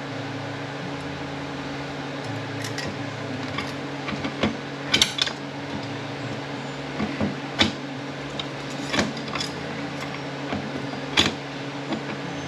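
Metal automatic-transmission parts clinking and clattering as they are handled and set down during a teardown, in scattered sharp knocks. A steady low hum runs under it.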